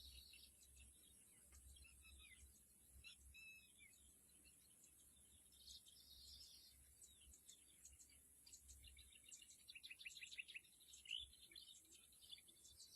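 Faint birdsong: several small birds chirping and calling, with short curved notes and a quick run of rapid repeated notes about ten seconds in.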